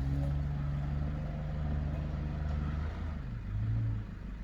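Nissan Patrol Y61 engine running under throttle off-road. The engine note rises at the start and holds steady, dips about three seconds in, then picks up briefly again before easing off near the end.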